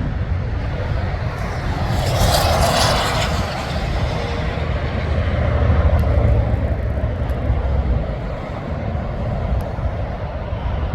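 Heavy trucks driving past with a steady low engine rumble, swelling into a louder rushing noise about two seconds in.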